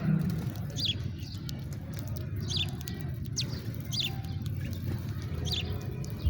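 House sparrow chirping: about five short, sharp cheeps at irregular intervals, over a steady low background rumble.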